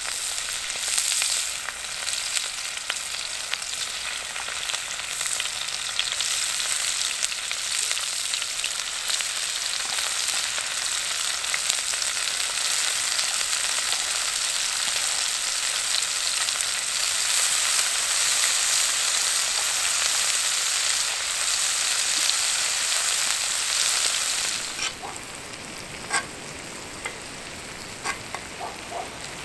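Salmon fillets and sliced red onion sizzling steadily in a hot cast-iron pan. Near the end the sizzle drops suddenly to a quieter level, with a few light clicks of a spatula against the pan as the onions are stirred.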